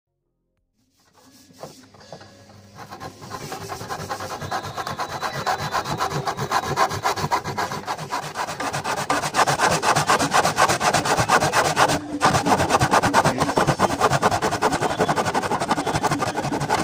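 A 12-inch steel back saw sawing through wood in a plastic miter box, in rapid back-and-forth strokes. It starts about a second in, grows louder over the first few seconds, and pauses briefly about twelve seconds in.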